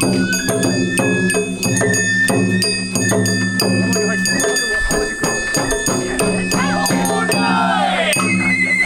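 Sawara bayashi festival music: a bamboo flute holds high notes over a steady beat of drums and a small hand gong, about two strikes a second. A falling, sliding sound comes near the end.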